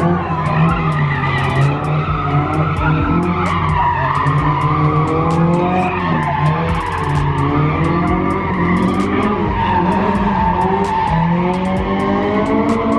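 A car spinning its tires at a car meet, its engine held at high revs with a continuous tire screech that wavers in pitch.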